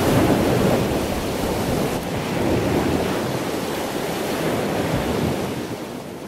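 Rushing water noise like surf, a steady wash that swells and eases a few times.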